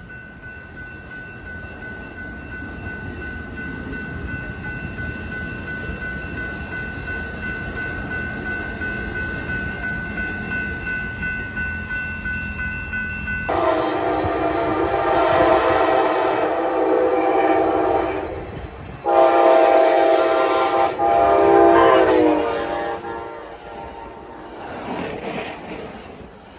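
Amtrak Pacific Surfliner train approaching, its rumble growing steadily louder under a steady high tone. About halfway through, a loud multi-note train horn sounds two long blasts, and the second slides down in pitch as the train passes.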